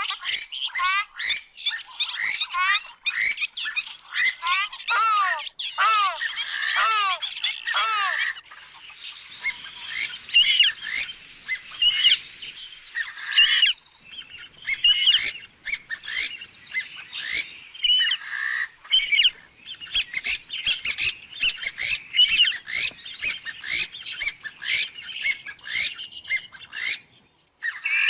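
Grey-headed swamphen calling in a rapid, continuous run of loud nasal squawks and cackles. Thin, high, downward-slurred notes join the squawks from about nine seconds in.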